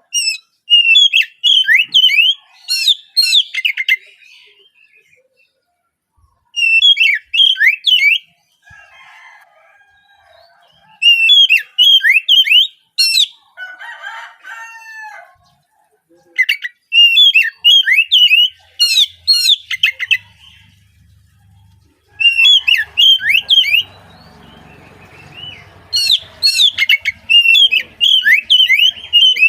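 Oriental magpie-robin (kacer) singing loud bursts of rapid, repeated sharp whistled notes. About six phrases are separated by short pauses with quieter calls in between.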